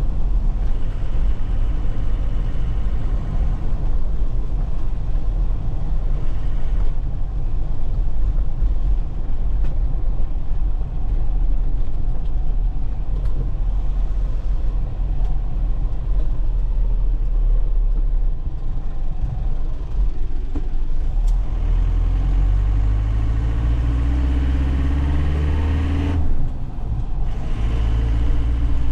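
2001 Nissan Cabstar light truck's diesel engine and road noise heard from inside the cab on a rough road: a steady low rumble. Late on, the engine climbs in pitch as it accelerates, cuts out for a moment around a manual gear change, then picks up again.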